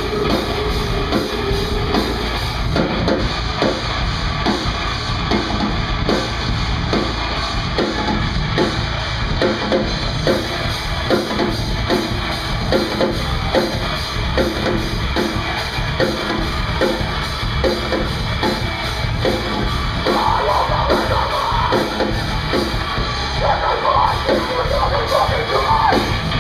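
Live heavy rock band playing loud, with a driving drum kit and distorted guitar.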